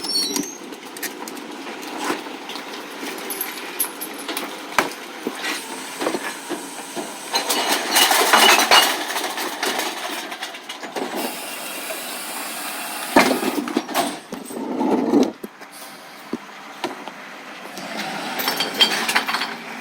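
Recycling collection truck at work: a steady running noise with repeated clattering knocks, and louder rushing, clattering bursts about eight seconds in, again around thirteen to fifteen seconds, and near the end.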